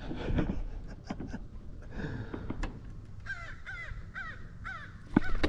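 Crows cawing: a quick run of about seven short caws in the second half, about four a second, over wind rumbling on the microphone.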